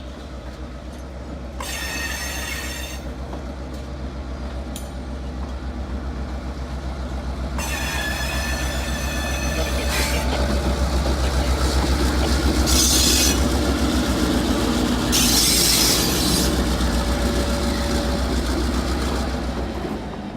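Passenger train moving on the rails behind an EMD GP9R diesel locomotive, with a steady low diesel drone. The wheels squeal several times in high-pitched bursts. The sound builds to its loudest in the middle and eases off near the end.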